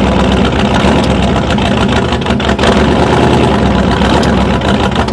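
Chevy S10 mud truck's engine running loudly and steadily.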